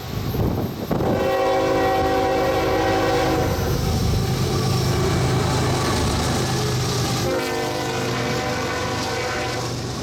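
CSX ES44AH diesel locomotive sounding its horn in two long blasts, the first about a second in and the second a few seconds later, over the steady rumble of the passing train.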